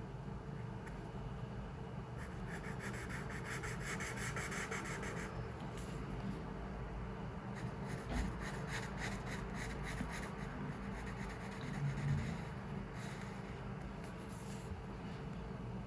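Pencil scratching on paper in two runs of quick, rapid strokes, over a steady low room hum.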